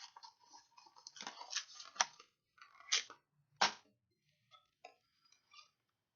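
Stiff plastic blister packaging being handled and cracked open. There is a crinkling rustle, then three sharp snaps about two, three and three-and-a-half seconds in, followed by a few light clicks.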